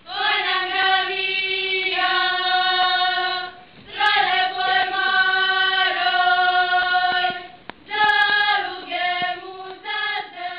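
Choral music of long held notes sung in three phrases, with short breaks between them.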